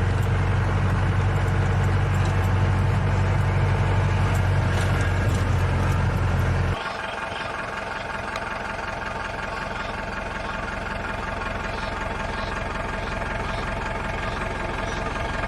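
A vehicle's engine running steadily with a deep hum. About seven seconds in, the low rumble drops out abruptly, leaving a fainter, steady higher hum.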